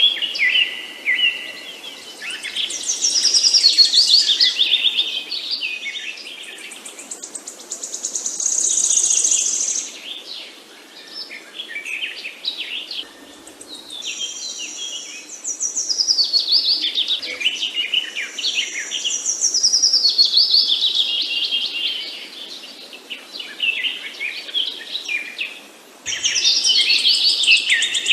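Several songbirds chirping and singing at once, with overlapping high chirps and rapid trills that swell louder and fade again in waves. The sound changes suddenly twice, about halfway through and near the end.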